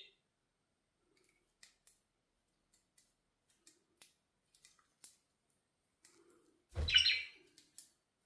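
Budgerigars in a cage: scattered faint clicks and taps, then about seven seconds in a short loud budgie chirp together with a low thump.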